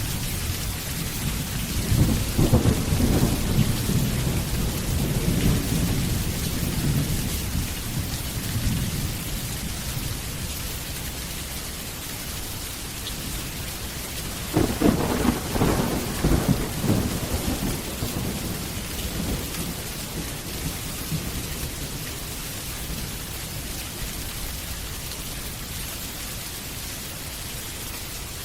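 Steady rain with two rolls of thunder, the first starting about two seconds in and rumbling for several seconds, the second, sharper one about halfway through and dying away.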